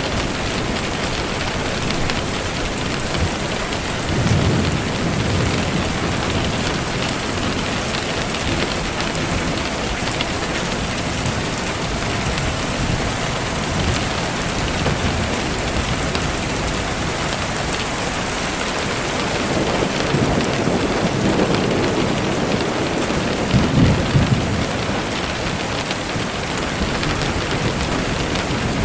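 Steady rain falling, with low rolls of thunder swelling about four seconds in and again near the end.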